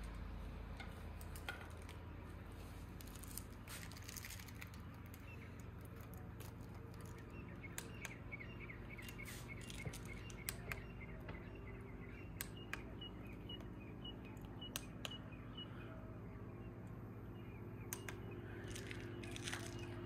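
A bird chirping a quick run of short repeated notes for several seconds in the middle, over a steady low hum, with scattered faint clicks.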